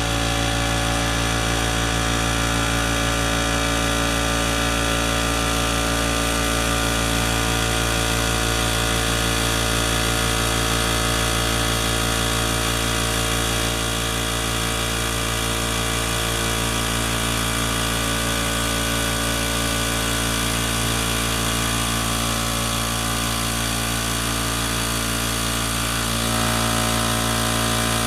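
Dewalt 4-gallon oil-lubricated air compressor running steadily as it pumps up its tank, quieter now that its repaired sump holds oil. Its pitch and level shift slightly about 13 seconds in and again near the end.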